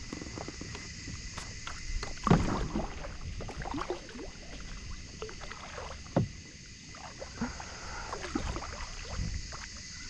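Irregular knocks and bumps on a kayak's hull and gear while a small flathead is brought in, the loudest knock about two seconds in and another about six seconds in.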